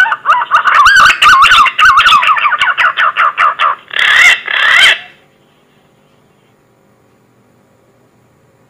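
Green pigeon (punai) call, as played for a hunting lure: a fast run of wavering, whistled notes for about four seconds, then two hoarser notes, stopping about five seconds in.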